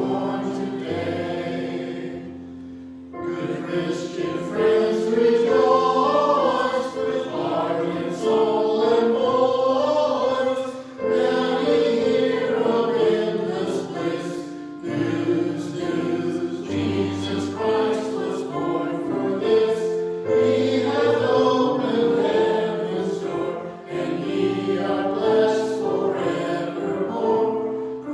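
A choir singing sacred music, held notes moving from chord to chord, with a brief lull about two to three seconds in.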